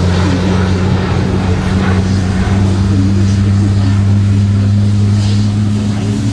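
A steady, loud, low engine drone with two constant humming tones over a rumbling noise.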